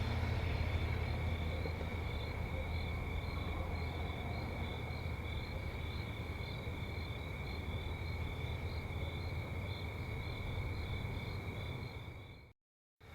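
Insects, likely crickets, chirping in a steady, regular pulse over a low, constant rumble. The sound fades out shortly before the end.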